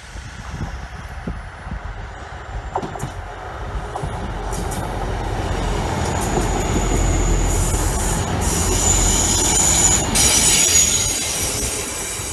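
Class 158 diesel multiple unit passing along the platform, its engine and wheels rumbling louder as it draws close. A high wheel squeal comes in bursts in the loudest middle stretch, then the sound fades as the train moves away near the end.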